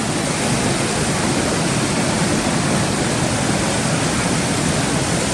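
Loyalsock Creek rushing over the Haystacks rapids in high water, swollen by heavy rain: a loud, steady, even rush of whitewater.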